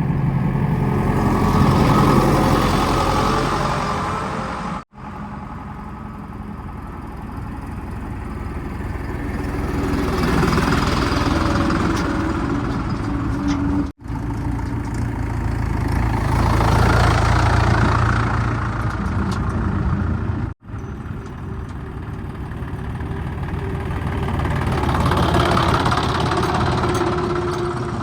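Diesel engines of heavy machinery running, in stretches that swell louder and fade, broken off abruptly about 5, 14 and 21 seconds in.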